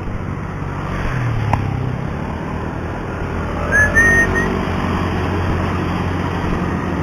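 Steady wind and road rumble while riding a bicycle, with a sharp click about a second and a half in and a short, high whistle-like squeal about four seconds in.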